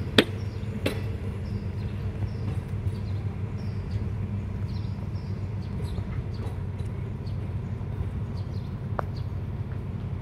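A rake of State Railway of Thailand passenger coaches being hauled slowly out along the yard tracks: a steady low rumble, with a sharp clack of wheels over a rail joint just after the start, another about a second in, and a fainter one near the end.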